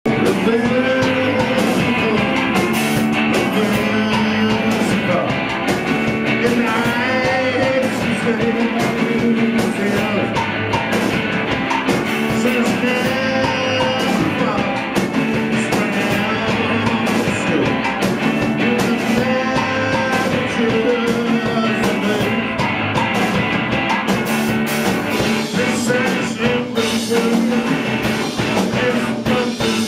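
A rock band playing live at full volume: drums, guitars and bass, with a singer's voice coming in and out over them.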